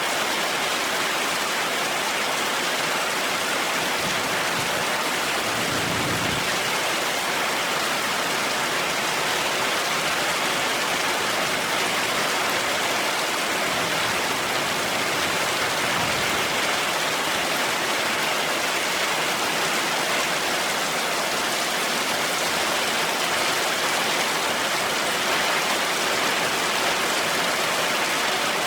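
Heavy rain falling steadily, an even hiss, with a brief low rumble about six seconds in.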